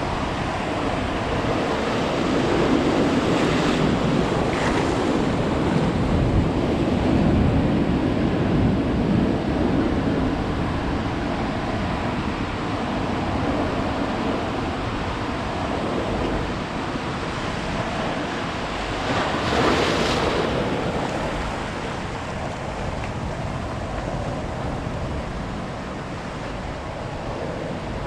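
Ocean surf: waves breaking and washing up the beach in a steady rush, swelling louder a few seconds in and again with a bigger wave crashing about twenty seconds in.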